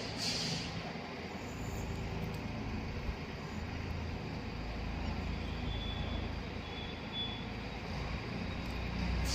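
Tractor engine running steadily, a low rumble, with a brief hiss just at the start.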